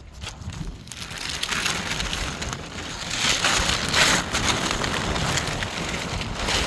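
Plastic sheeting crinkling and rustling as it is handled, a dense crackling noise that grows louder about a second in and is loudest near the middle.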